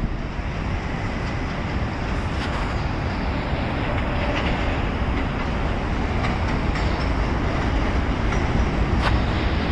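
New York City subway train running on the track, a steady rail rumble that grows slightly louder, with a few sharp clicks from the wheels and rails.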